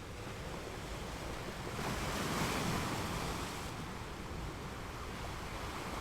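Ocean waves washing onto a beach, one wave surging up and hissing about two seconds in and easing off near four seconds, over a low rumble of wind on the microphone.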